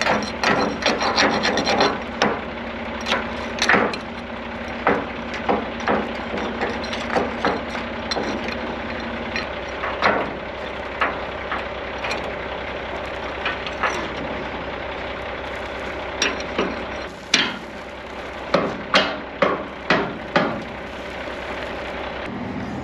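Irregular sharp knocks and clanks, bunched near the start and again near the end, over an engine idling steadily; a steady hum in the engine sound drops away about nine seconds in.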